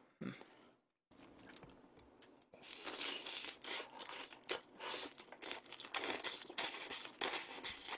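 Biting into and chewing a slice of gorgonzola pizza piled with spicy stir-fried octopus and bean sprouts, with crunching that starts about two and a half seconds in and runs as a dense series of quick crackles.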